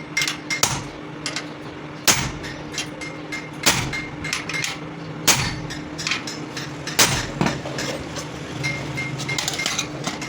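Hammer striking metal: four heavy blows about a second and a half apart, with lighter taps between them, over a steady low hum.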